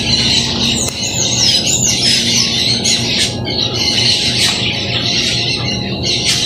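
Birds chirping, with a quick run of rising-and-falling whistled notes in the first couple of seconds and scattered short calls after, over steady background music.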